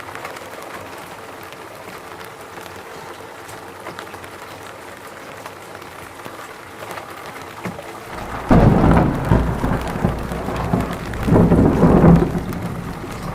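Steady rain falling. About two-thirds of the way in, a loud thunderclap breaks in and rolls on as a deep rumble, swelling once more near the end.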